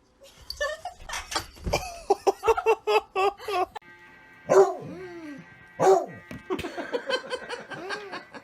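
A pet animal calling: a quick run of short, high yelps about two seconds in, then two longer, louder cries, then more short calls.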